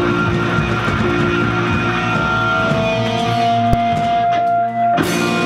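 Live rock band with electric guitars and drum kit, holding sustained chords, with a sudden full-band hit near the end.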